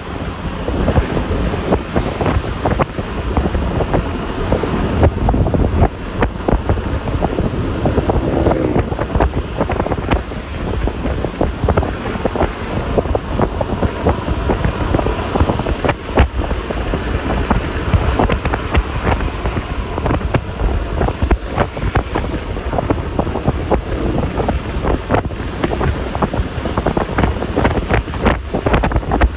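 Riding noise from a Yamaha Lexi LX 155 scooter: wind buffeting the microphone over the running single-cylinder engine and tyre and road noise, steady throughout.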